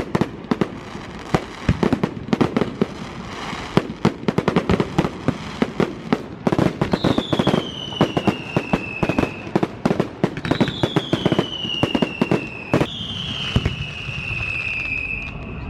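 Fireworks display: a dense run of sharp cracks and bangs. About halfway through come three long whistles, one after another, each falling in pitch.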